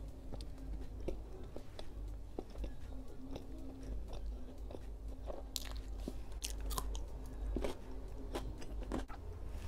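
Close-miked chewing and biting of a soft sandwich: wet mouth clicks and light crunches at an irregular pace, becoming sharper and denser about halfway through.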